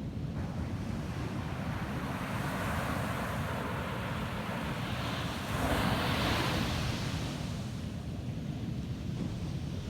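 Ocean surf on a beach: a wave washes in, swelling over a few seconds to its loudest about halfway through, then fading. Under it runs a steady low rumble of wind on the microphone.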